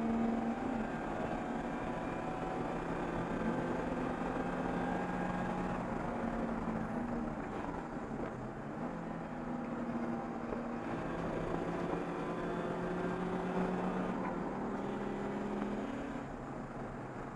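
Race car engine heard from inside the stripped cockpit, its note climbing under acceleration and dropping back in steps several times through the gears, over road and wind noise.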